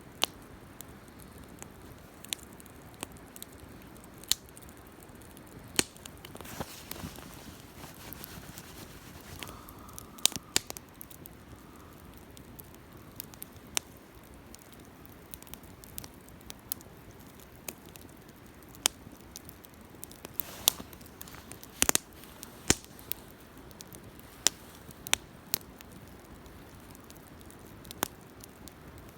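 Wood campfire crackling: irregular sharp pops and snaps of burning wood over a low steady hiss.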